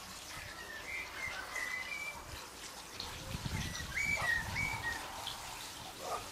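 Birds chirping: two short runs of whistled notes, rising and falling in pitch.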